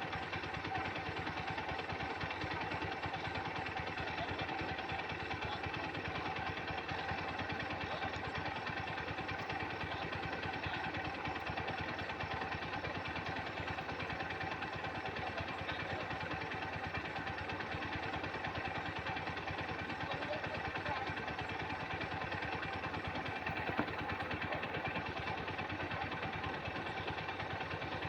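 Swaraj tractor's diesel engine running steadily, with one brief knock near the end.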